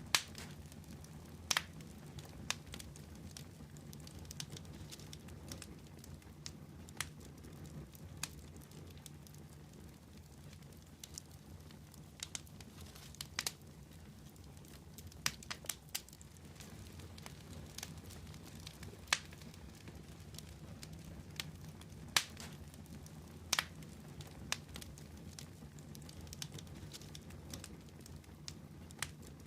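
Wood fire crackling: irregular sharp pops and snaps, a few much louder than the rest, over a low steady rumble.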